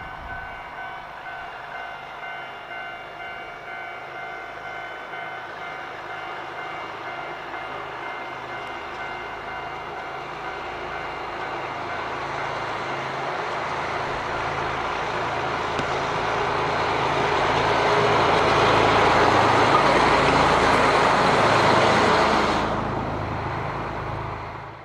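DD15 diesel locomotive running during a run-around move, its engine steady at first, then growing louder as it comes close, peaking about 18 to 22 seconds in. The sound then drops off suddenly and fades as it moves away.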